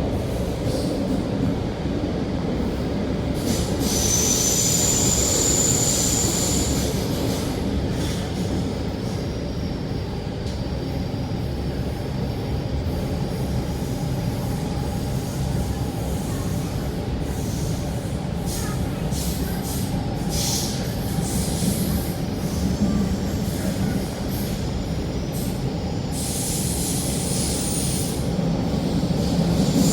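Rotem K-train electric multiple unit running at speed, heard from inside the car: a steady rumble of wheels on rail, with high-pitched wheel squeal a few seconds in and again near the end.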